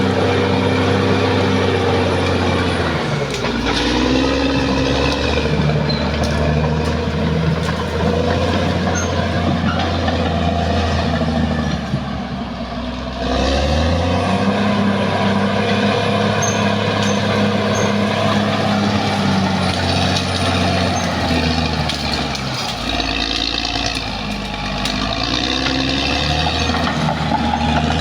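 Caterpillar D6R XL bulldozer's diesel engine running under load, its pitch dropping and climbing again several times as the machine works.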